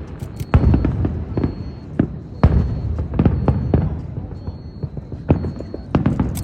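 Aerial fireworks going off in a fast, irregular string of sharp bangs over a constant low rumble.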